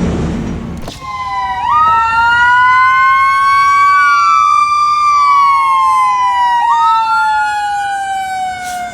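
Emergency vehicle sirens wailing: two tones slowly rising and falling, crossing each other, as a fire apparatus responds. The siren starts about a second in, after a brief stretch of heavy traffic rumble that cuts off abruptly.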